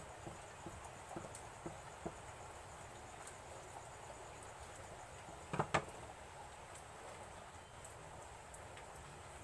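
A few faint clicks and taps over a steady low hiss, with a sharper double click about five and a half seconds in.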